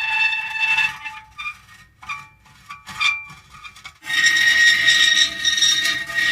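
Metal creaking and squealing: a drawn-out squeal, then about three seconds of shorter, quieter creaks, then another long squeal from about four seconds in, a little louder than the first.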